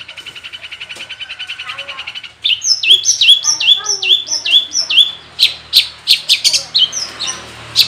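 Long-tailed shrike (cendet) singing its mimicry-filled song: a fast, even trill for the first two seconds or so, then loud, quick whistles sliding down in pitch about three a second, giving way to short sharp notes.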